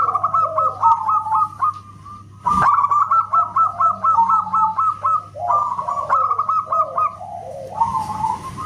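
Zebra dove (perkutut) calling in fast runs of short, clipped cooing notes, about six or seven a second, in several bursts with short breaks. A single sharp click comes about two and a half seconds in, over a steady low hum.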